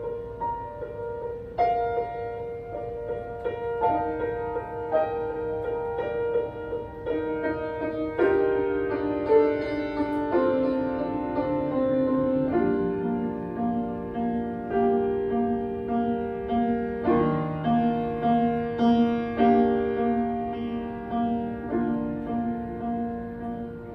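Solo piano playing an improvisation, with chords and melody notes struck about every second or so and left to ring.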